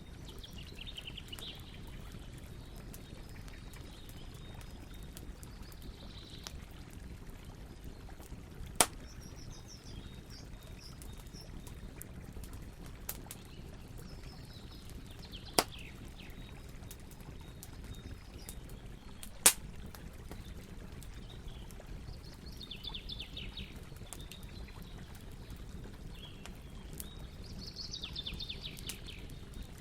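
Campfire burning with a steady low hiss and fine crackling, broken by three sharp, loud pops. Birds call in short trills several times in the background.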